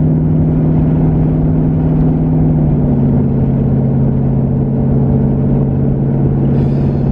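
Twin-turbocharged 2019 Ford Mustang GT's 5.0-litre V8 droning steadily at light-throttle cruise, heard from inside the cabin. Its pitch steps down once about three seconds in.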